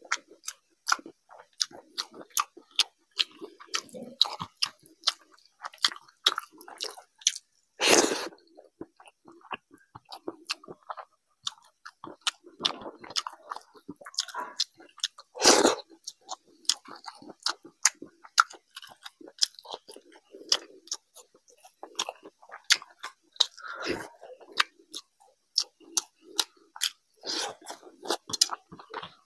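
Close-up chewing and lip smacking of a person eating rice mixed with curry by hand: wet mouth sounds with many sharp clicks, and two louder, half-second noisy sounds about a quarter and half of the way through.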